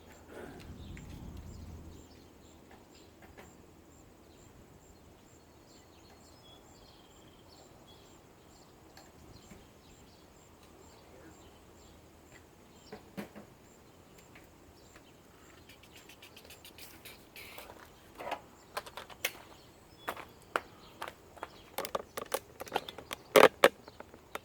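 Quiet background with a brief low rumble at the start and a few faint bird chirps. In the last third comes a run of sharp clicks and knocks, growing denser and louder near the end: hard parts and tools being handled during a teardown.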